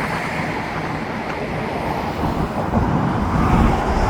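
Road traffic: a steady rush and rumble of passing cars and trucks.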